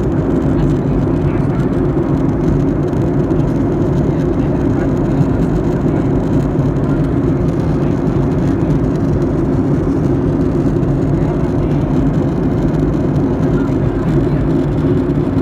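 Steady engine drone and air noise inside an airliner's cabin in flight, a loud, even low hum with no breaks.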